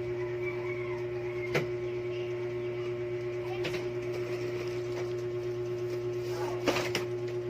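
Electric clip fan running with a steady motor hum and a constant tone, with a few light clicks.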